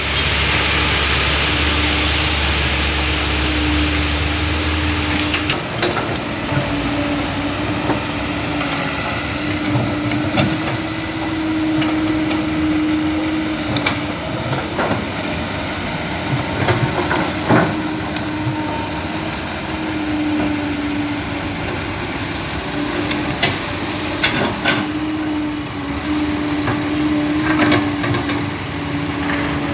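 A vehicle's motor running under load. A deep hum drops away about five seconds in, then a wavering mid-pitched drone comes and goes, with scattered knocks and clatter.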